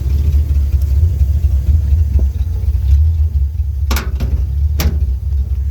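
1946 Dodge pickup truck running, a steady low rumble, with two sharp clicks about four and five seconds in.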